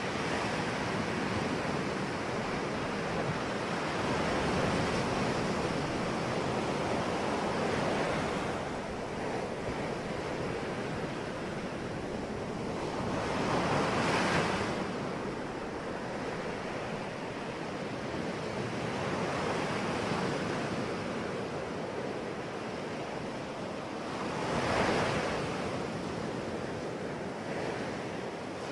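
Ocean waves breaking on the shore in a steady wash of surf, with bigger waves swelling up about 14 and 25 seconds in.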